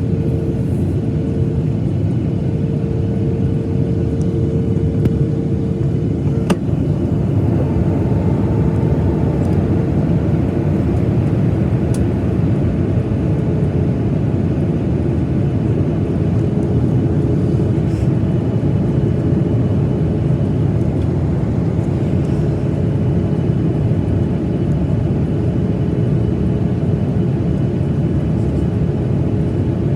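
Boeing 737-900ER cabin noise in flight: the steady rush of airflow and engines, heard from inside the cabin, with a faint steady hum over it. A couple of faint clicks come through in the first half.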